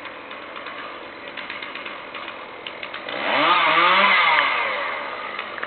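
Two-stroke chainsaw idling with a light clatter, then revved hard about three seconds in, its pitch climbing, held for about a second, then easing back down.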